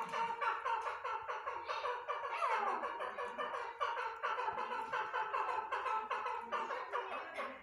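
Grey francolin calling: a rapid, unbroken chatter of short, down-slurred notes, several a second.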